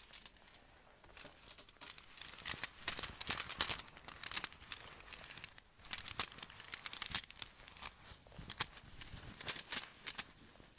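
Close-miked crinkling and rustling, with many sharp clicks and taps scattered unevenly throughout.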